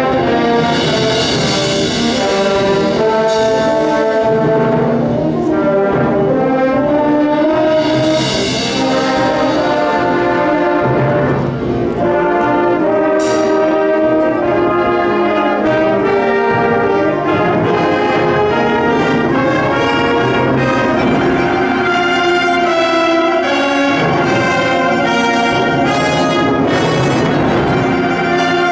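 University wind band playing a concert piece, with the brass prominent in sustained chords and melody. Two swelling high shimmers come in the first ten seconds, and sharp strikes cut through twice.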